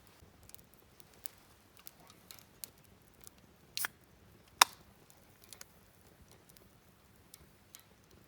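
Wood campfire crackling: scattered sharp pops and ticks, with two louder snaps about four seconds in.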